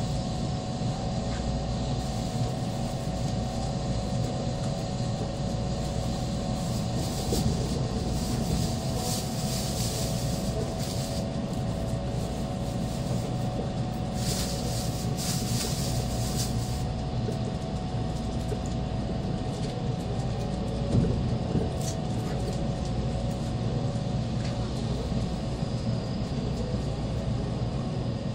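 Steady cabin rumble of an N700-series Shinkansen car running at restricted speed, with a constant hum of several steady tones over it. A hiss swells up twice in the middle, and there is a light knock about three quarters of the way through.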